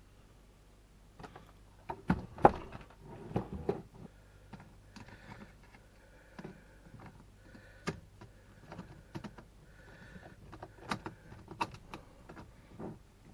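Irregular clicks, taps and knocks of small RC car chassis parts and tools being handled, with a cluster of louder knocks about two to four seconds in.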